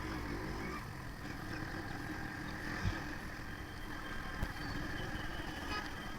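Motorcycle riding noise on the highway: a steady low rumble of engine, wind and road, with two brief thumps about three and four and a half seconds in.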